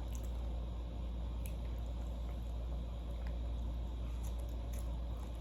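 Quiet eating sounds of a person chewing food, with a few faint scattered clicks, over a steady low hum.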